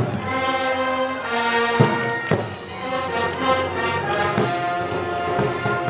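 Brass band playing Moros y Cristianos festival music: held brass notes over a few drum strikes.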